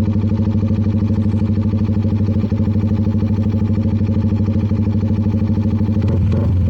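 A CFMoto 300NK's single-cylinder engine idling steadily with a fast, even pulse, then shifting briefly near the end.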